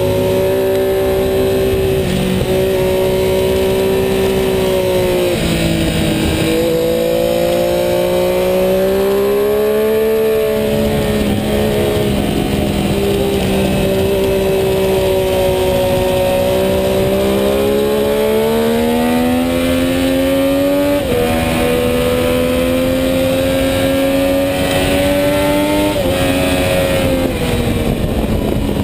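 Sport motorcycle engine pulling hard at high revs on a racetrack, heard from on board with wind rush over it. The pitch climbs and sags through the corners and jumps down suddenly a few times at gear changes.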